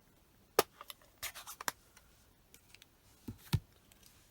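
Small clicks and taps from handling a rubber stamp and ink pad: one sharp click, a quick run of taps about a second in, then two more knocks near the end, typical of opening the ink pad and inking the stamp.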